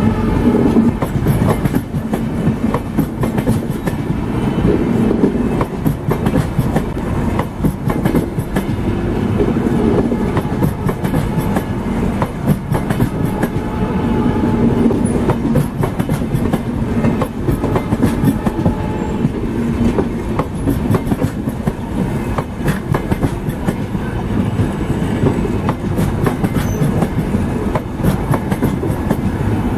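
Indian Railways passenger coaches rolling past close by, their wheels clattering over the rails in a continuous run of clickety-clack beats over a steady rumble.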